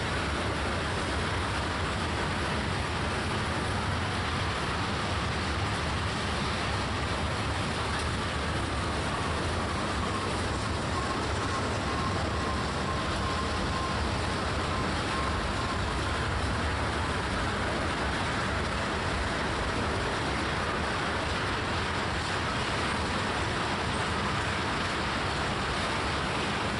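Freight train of tank cars rolling steadily past: a continuous rumble of steel wheels on the rails, with a faint thin tone that comes and goes around the middle.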